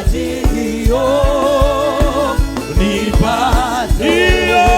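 Live gospel worship music: voices holding long sung notes with vibrato over a steady kick-drum beat and band accompaniment.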